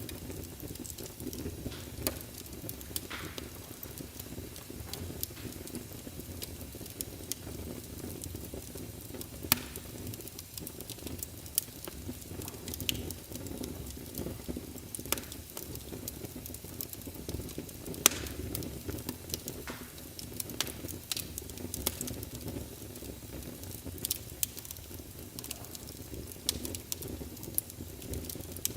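Wood fire burning in a fireplace, a steady low rustle and hiss under irregular sharp crackles and pops, a few louder snaps scattered through.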